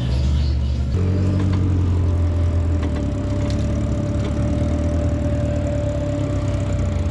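Off-road rock-crawling rig's engine running at low revs, its note stepping up slightly about a second in and then holding steady.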